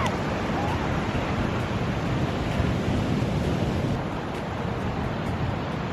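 Steady wind rumbling on the microphone over the wash of ocean surf on a beach.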